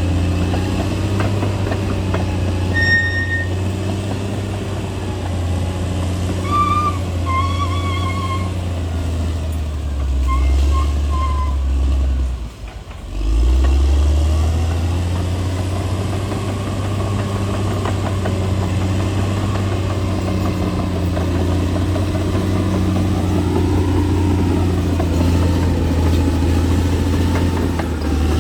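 Crawler bulldozer's diesel engine running steadily under working load. There are a few short high squeaks in the first half, and a brief drop in sound about halfway through before it picks back up.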